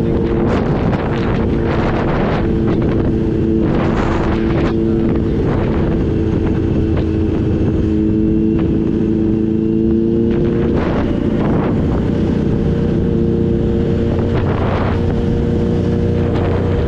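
Kawasaki Z H2's supercharged inline-four engine running steadily at cruising speed, with wind buffeting the microphone. The engine note shifts a little about eleven seconds in.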